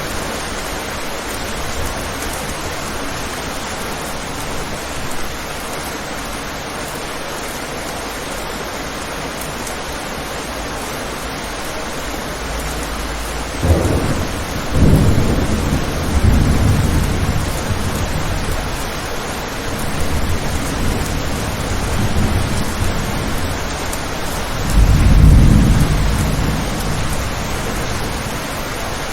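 Steady rain with rolling thunder: a sharp crack about halfway through rumbles on for several seconds, and a second, louder roll comes near the end.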